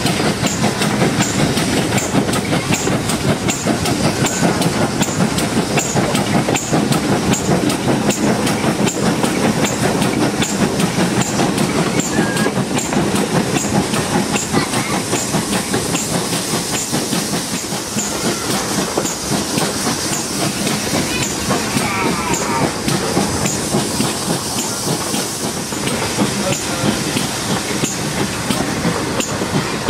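Heritage train running along the line, heard from an open carriage window: a steady rumble of wheels on rail with a rushing hiss and a regular light ticking.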